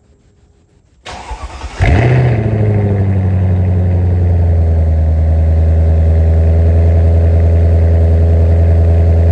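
Mercedes-Benz CL500's 5.0-litre V8 running with no exhaust fitted, cranked on the starter for under a second, catching with a brief flare of revs that drops away, then settling into a loud, steady idle.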